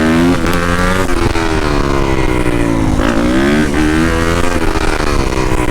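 Yamaha YZ250F dirt bike's four-stroke single-cylinder engine under way, its pitch climbing under throttle, dropping about three seconds in, then climbing again and easing off near the end.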